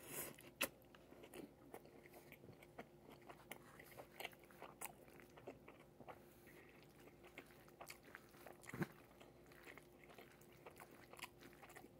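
Faint, close chewing of a bite from a no-bread salad bowl, with many small irregular crunches and clicks, the loudest at the start and about nine seconds in.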